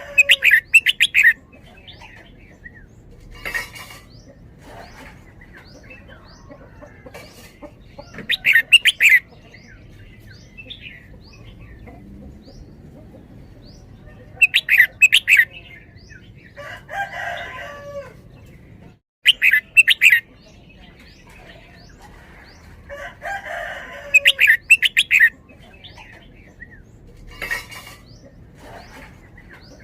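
Red-whiskered bulbul singing: short, loud, chattering song phrases of quick notes, repeated every few seconds.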